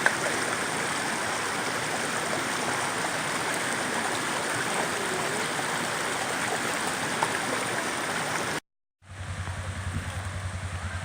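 A rain-swollen creek rushing steadily. About eight and a half seconds in, it cuts off abruptly and is replaced by a vehicle engine idling with a low, even throb.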